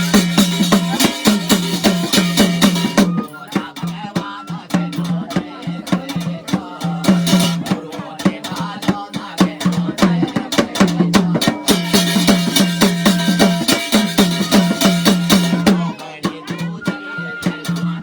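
Instrumental passage of jagar devotional music: fast, steady drum strokes over a sustained low drone, without singing. The playing thins out after about three seconds and swells again for a few seconds past the middle.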